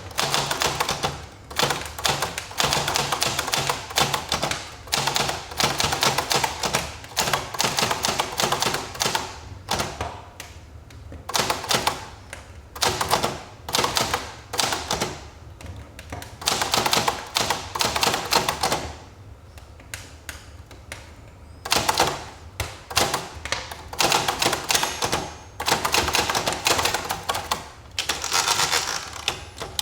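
Manual typewriter being typed on: quick runs of sharp keystroke clacks with brief pauses in between.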